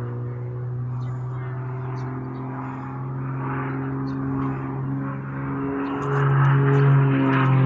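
Light aircraft's piston engine and propeller running steadily at a constant pitch, getting louder and rising slightly about six seconds in.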